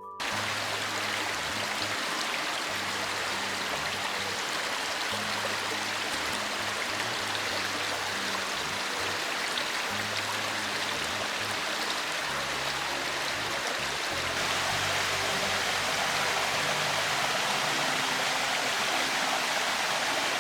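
Waterfall rushing steadily, with quiet background music underneath. The water gets a little louder about 14 seconds in.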